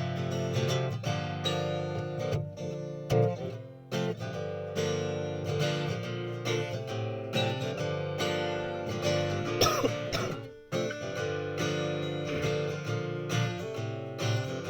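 Acoustic guitar strummed in a steady rhythm, playing chords as an instrumental passage with no singing.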